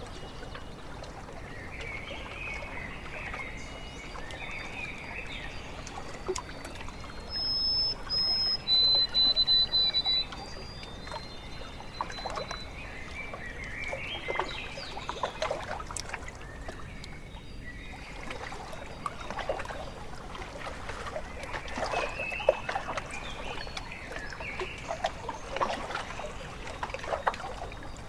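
Lake water lapping and trickling at the shore, with birds calling. About eight seconds in, a few clear, high whistled notes ring out, the loudest sound here.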